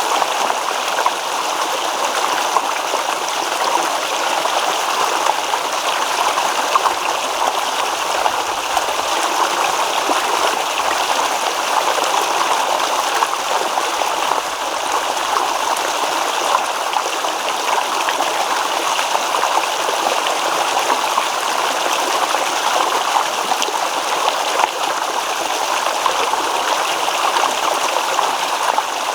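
Shallow stream babbling and trickling over stones, a steady rush of water.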